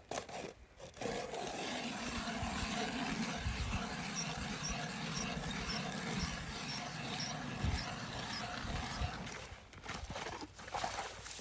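Ice auger boring a hole through lake ice, cutting steadily for about eight seconds with a faint squeak repeating about twice a second, then stopping.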